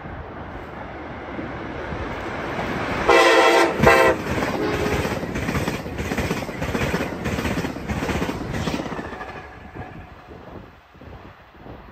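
Amtrak Northeast Regional passenger train approaching and passing at speed: a building rush of wheels on rail, a short two-part horn blast about three seconds in, then a rhythmic clatter of the coaches' wheels over rail joints that fades near the end.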